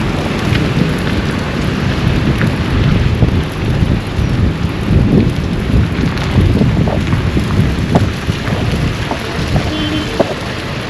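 Wind buffeting the microphone outdoors: a loud, uneven low rumble, with scattered light ticks over it.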